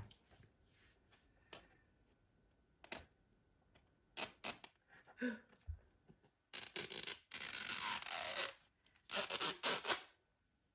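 Wrapper of a Rainbocorns Puppycorn toy being torn open by hand: a few scattered crinkles and clicks, then longer bursts of tearing and crinkling in the second half.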